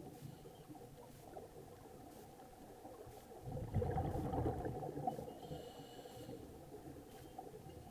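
Tugboat engine running steadily with a faint hum, a deeper rumble swelling for a second or so about halfway through.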